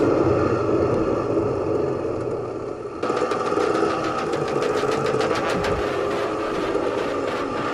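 Small off-road motorcycle engines running, with the sound changing abruptly about three seconds in.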